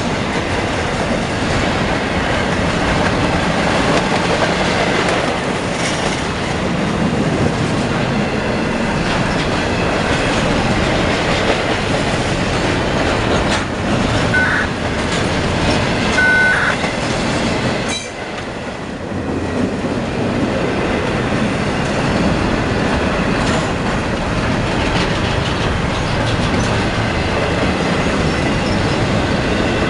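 Freight train cars rolling past at close range, with a steady rumble of wheels on rail and a clickety-clack of wheels over rail joints. Short wheel squeals come in about halfway through.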